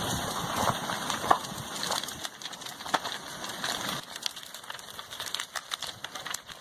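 A house burning as a lava flow engulfs it: irregular crackling and popping over a rough rushing noise, which thins out after about two seconds.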